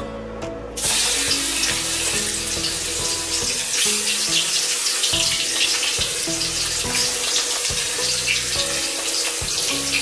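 Ground spice paste sizzling in hot cooking oil in a wok, starting suddenly about a second in as the paste hits the oil and carrying on as a steady hiss.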